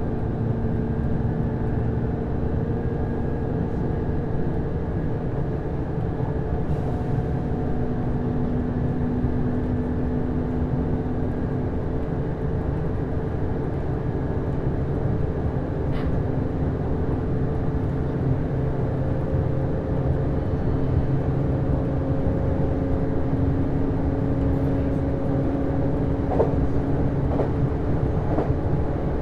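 JR East HB-E210 series hybrid diesel-electric train running between stations, heard inside the passenger car. A steady wheel-and-rail rumble lies under a drive hum whose pitch climbs slowly, with a few short knocks near the end.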